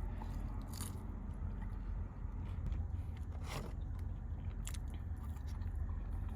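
A person biting into and chewing a sauce-dipped chicken tender, with a few short, soft crunches, over a steady low hum.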